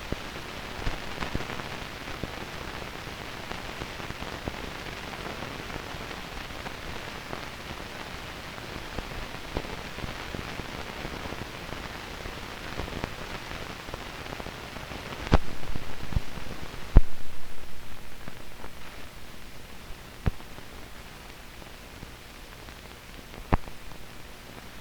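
Hiss and crackle of an old film soundtrack carrying no recorded sound, with scattered small clicks. A few louder pops come about two-thirds of the way in, after which the hiss is quieter, and one more pop comes near the end.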